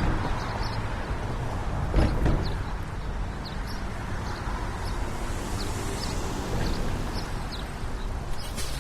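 Quick footsteps on a pavement over the steady noise of road traffic, with one louder thump about two seconds in.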